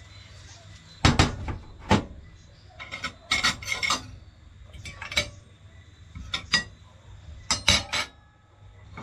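Metal utensils clinking and scraping against pots and plates as food is dished up, a series of short, irregular clatters.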